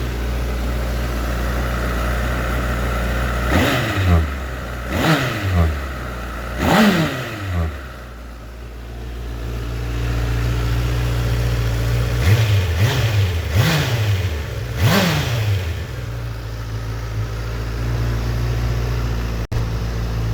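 Honda CBR1000RR Fireblade's 999cc inline-four idling, with the throttle blipped in quick revs that climb sharply and drop straight back to idle: three, then after a pause several more.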